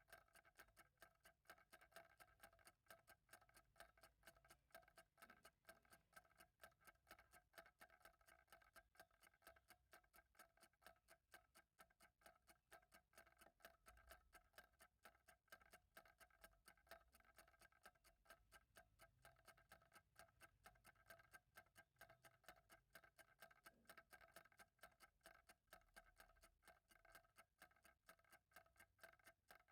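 Faint, steady ticking of a clock, several even ticks a second.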